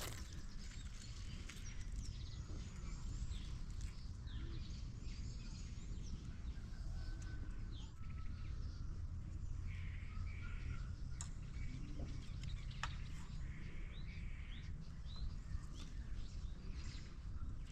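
Birds chirping and calling here and there, over a steady low rumble, with a few sharp clicks.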